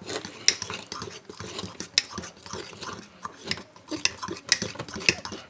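A spoon stirring batter in a mug, with irregular clinks and scrapes of the spoon against the mug's sides.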